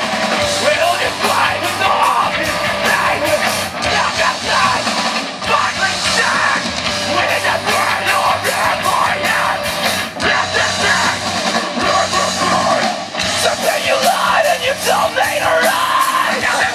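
Live heavy rock band playing loud and fast, with pounding drums, distorted guitars and shouted, screamed vocals. The recording is thin in the bass.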